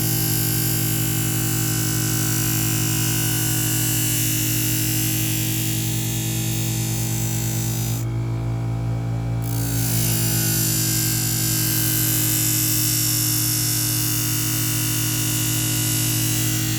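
Electric knife-and-scissor sharpening machine running with a steady motor hum while a kitchen knife's edge is ground on it, with a hissing grinding noise. About eight seconds in, the grinding hiss stops for a second and a half, as the blade comes off the wheel, then resumes. This is the final edge-setting stage, done with light pulling strokes.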